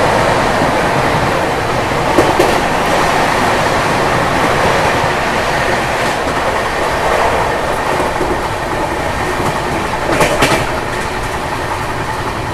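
Passenger train running at high speed, about 130 km/h, straight through a station, heard from an open coach doorway: a loud, steady rush of wind and wheel-on-rail noise with clickety-clack. Two sharper clacks come about two seconds in and again about ten seconds in.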